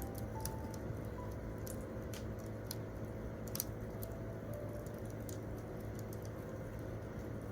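Wood campfire crackling, with irregular sharp pops over a steady low hiss, one louder pop about three and a half seconds in. A few soft piano notes sound faintly underneath.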